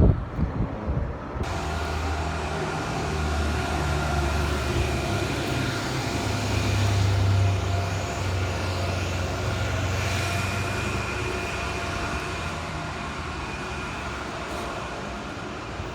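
Vehicle engine running steadily, its low drone shifting up and down in pitch every few seconds; it sets in abruptly about a second and a half in.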